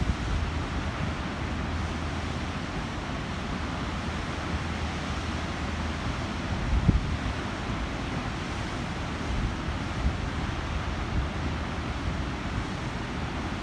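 Water rushing steadily through a gate, a constant even noise of churning water, with wind buffeting the microphone in low thumps, the strongest about seven seconds in.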